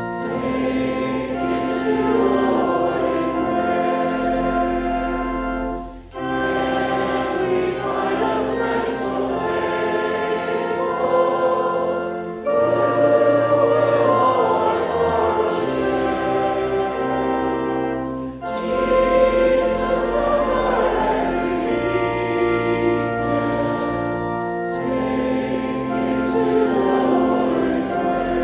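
Congregation singing a hymn with organ accompaniment: held chords over a sustained bass, in lines with a short break for breath about every six seconds.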